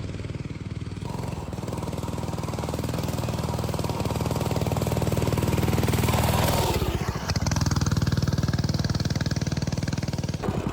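Coleman mini bike's small single-cylinder four-stroke engine running under throttle while being ridden, growing louder over the first few seconds. About seven seconds in the revs drop briefly and then pick back up.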